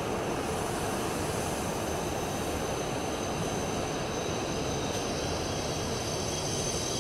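Shinkansen bullet train moving slowly along the platform: a steady rumble and hiss with a thin, steady high whine.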